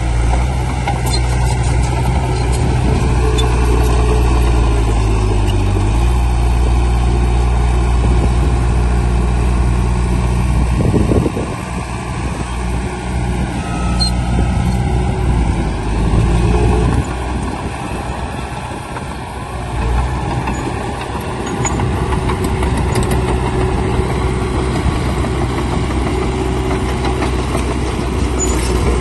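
Heavy diesel engine of earthmoving machinery running steadily. Its note shifts about six seconds in, there is a brief loud surge around eleven seconds, then it runs quieter for several seconds before picking back up.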